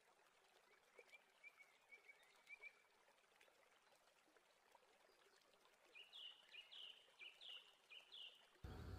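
Faint bird chirps over a low hiss: a few soft, short chirps in the first few seconds, then a run of about five louder two-note chirps near the end.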